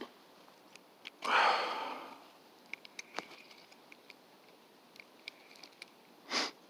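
A person breathing and sniffing: one long, loud breath about a second in and a short sniff near the end, with scattered faint clicks between.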